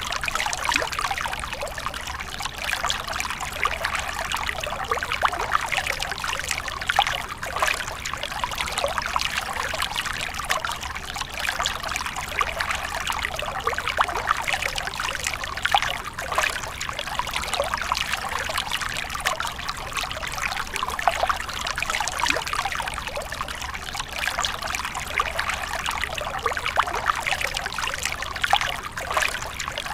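Water trickling and babbling steadily, a continuous run of small splashes and gurgles.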